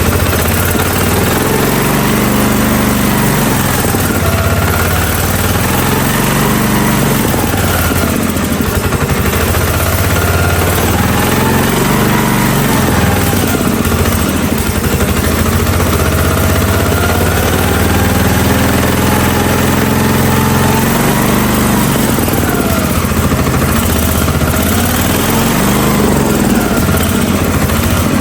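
16-horsepower gasoline engine of a Hotsy pressure washer running steadily loud, its speed swinging up and down every few seconds.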